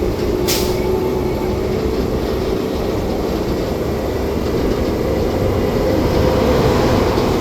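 Disneyland parking tram rolling along: a steady rumble of its running gear on the road under a whining tone. A brief hiss comes about half a second in.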